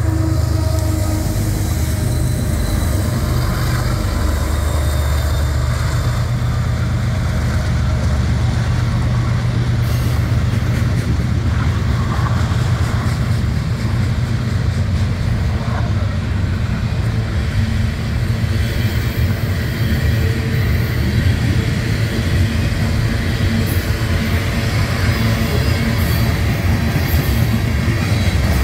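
A GE ES44AC diesel locomotive passes close by, followed by a long string of loaded hopper cars rolling past. It makes a steady, loud, low rumble with the rattle of steel wheels on the rail joints.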